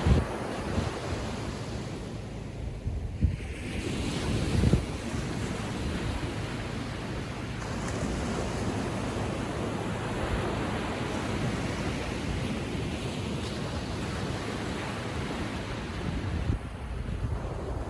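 Small ocean waves breaking and washing up the beach in a steady hiss, with wind buffeting the microphone in low rumbling gusts a few seconds in and again near the end.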